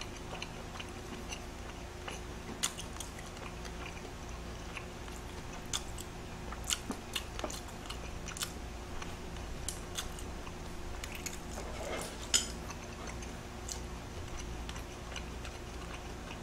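Faint chewing of grilled shrimp with the mouth closed, with scattered small clicks and taps now and then; the sharpest comes about twelve seconds in.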